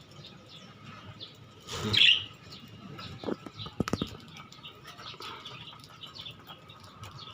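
Pet lovebirds chirping in short high calls, with a rush of fluttering wings and a louder call about two seconds in. A few sharp knocks come a little later.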